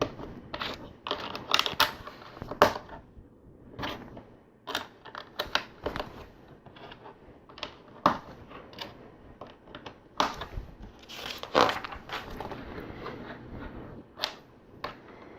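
Plastic LEGO pieces being handled and pressed together: irregular sharp clicks and clacks of bricks and plates snapping on and knocking against each other.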